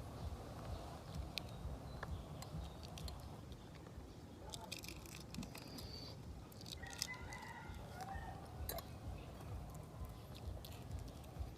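Close eating sounds from balut duck eggs: small clicks and crunches of chewing and biting. About seven seconds in, a rooster crows once in the background.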